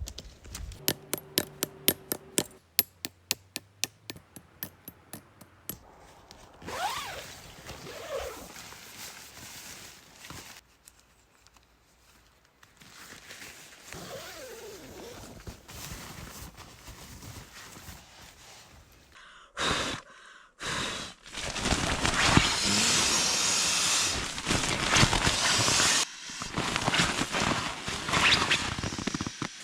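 Tent being pitched: first a run of sharp, evenly spaced clicks, then a few short bird calls in the forest, then from about two-thirds of the way in, loud rustling and scraping of tent fabric being handled.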